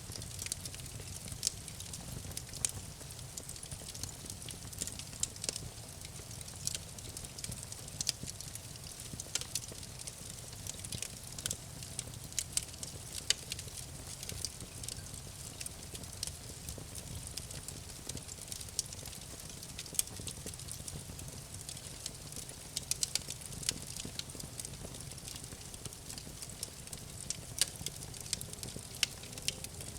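Campfire crackling, with irregular sharp pops and snaps of burning wood, several a second and some louder, over a steady low rumble.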